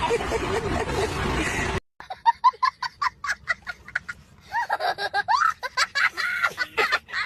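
Laughter from meme sound clips. First a snicker over a noisy background, then a sudden cut about two seconds in to a run of short, choppy laughs with a voice gliding up and down in pitch.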